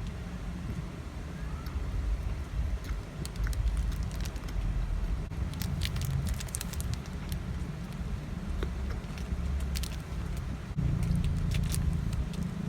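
Someone eating a KitKat: scattered crisp crackles and clicks of the wafer being bitten and chewed, over a steady low rumble.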